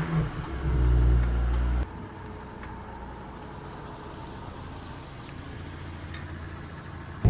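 Audi S4 engine running just after start-up: a loud, low note for about the first two seconds, then it drops abruptly to a much quieter, steady hum.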